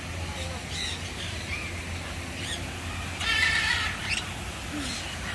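Birds calling: a harsh, drawn-out squawk a little over three seconds in, with a few faint short chirps around it, over a steady low hum.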